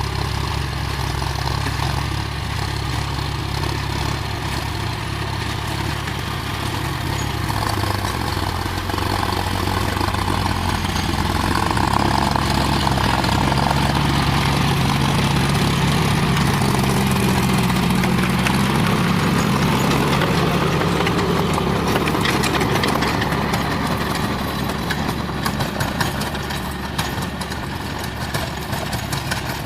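John Deere 5050 D tractor's three-cylinder diesel engine running. Its note rises and gets louder about ten seconds in, holds, then eases back down near the end.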